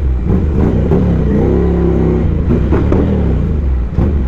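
Ducati Scrambler Icon's air-cooled 803 cc L-twin running under way, its pitch rising and then falling once as the throttle is worked, over a steady rush of noise.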